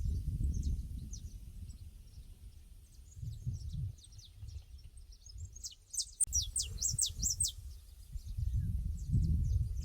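Small birds chirping, with a cluster of louder, rapid, high descending chirps about six to seven and a half seconds in, over irregular low gusts of wind rumbling on the microphone.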